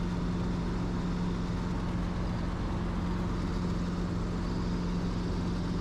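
Helicopter in level cruise: a steady, unchanging drone of engine and rotor with a constant low hum.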